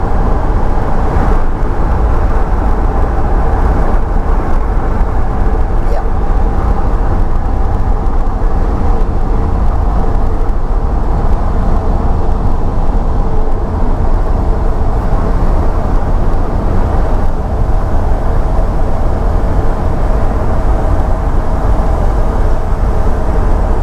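Pickup truck driving on a mountain highway: a steady engine and road-noise rumble with a heavy low drone and a faint engine hum.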